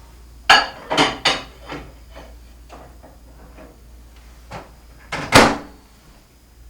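Microwave oven door and a plate going in: a few sharp clunks as the door opens and the plate with the mac and cheese cup is set inside, lighter clicks, then the door shut with a loud knock about five seconds in.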